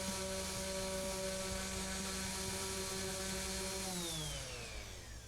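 Electric random orbit sander fitted with an 80-grit disc, running with a steady whine. It is switched off about four seconds in, and its pitch falls as the motor winds down.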